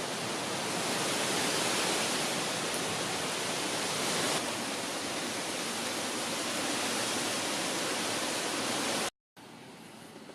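Hurricane wind rushing as a dense, steady hiss, picking up a little more, with slight swells about two and four seconds in. It cuts off abruptly near the end, leaving a much quieter background.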